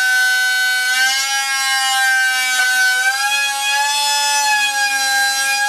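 Reinstatement cutter motor in a lined pipe, whining steadily, its pitch drifting slowly up and down.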